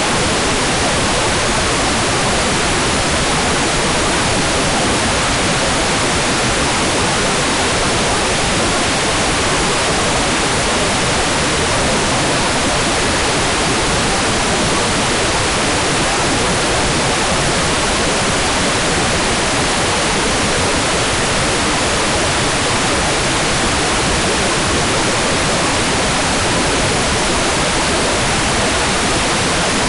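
Hair dryer running steadily: an even, unbroken rushing of air noise with no change in level or pitch, used as white noise for a baby's sleep.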